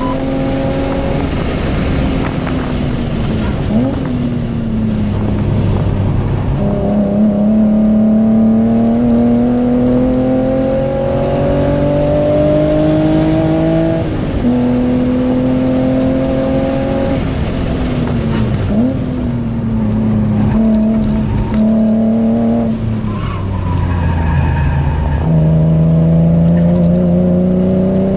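BMW E36 M3's straight-six engine heard from inside the cabin on a track lap. It climbs in pitch through a long pull, drops sharply at a gearchange about halfway through, then falls under braking with short blips of revs, and pulls again near the end.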